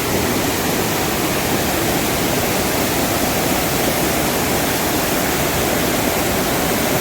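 Steady, loud rushing of water, an even unbroken hiss with no separate drops or splashes standing out.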